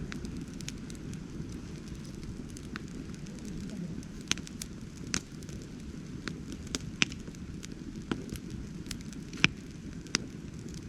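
Wood fire burning: a steady low rush of flame with scattered sharp pops and crackles from the burning wood, the loudest snap about nine and a half seconds in.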